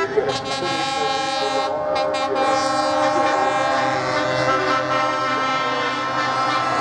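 Truck air horns sounding together, several overlapping steady horn tones held for several seconds.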